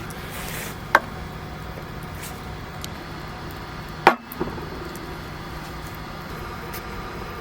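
Two short, sharp knocks, one about a second in and a louder one about four seconds in, over a steady background hiss.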